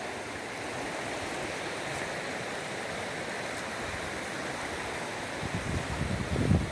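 Rain-swollen stream rushing fast, a steady even wash of water. Near the end, gusts of wind buffet the microphone.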